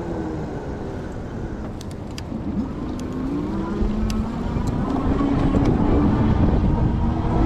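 E-bike's 750-watt Bafang rear hub motor whining, its pitch sliding down and then back up with road speed, over low wind rumble on the microphone that grows louder in the second half.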